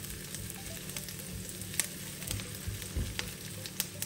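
Chopped garlic and onions sizzling in olive oil in an enamelled cast-iron skillet while being stirred with a silicone spatula, with a few sharp ticks over a steady hiss. The aromatics are being cooked until lightly browned.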